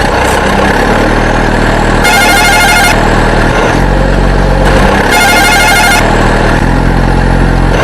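Steady engine sound for a toy tractor or truck, its low drone shifting pitch in steps. A high ringing, horn-like tone sounds twice for about a second each, about two and five seconds in.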